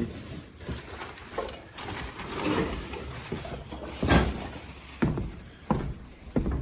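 A few separate knocks and thumps, the loudest about four seconds in, with a stretch of rustling and shuffling before it.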